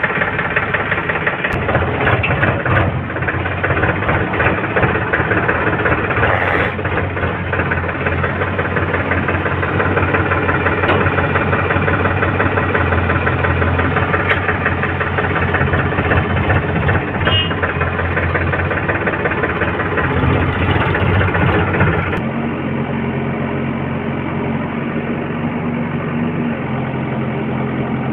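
Heavy diesel engine of earth-moving machinery running loudly and continuously. About three quarters of the way through it changes to a steadier, slightly quieter hum.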